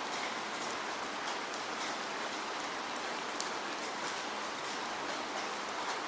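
Steady rainfall, a dense even hiss with scattered sharper drop ticks on a surface.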